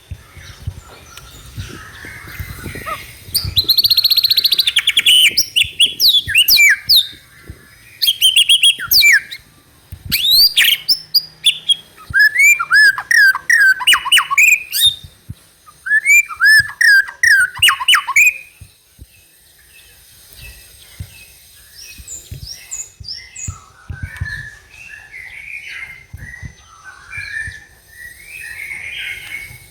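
White-rumped shama song, used as a lure to set young shamas singing: loud phrases of rapid, sharply rising and falling whistled notes for the first half, then a quieter, softer stretch of song near the end.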